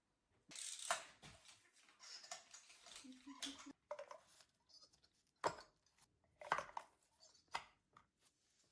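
Hand-handling noises: a scrape and rustling in the first few seconds, then several separate sharp clicks and knocks.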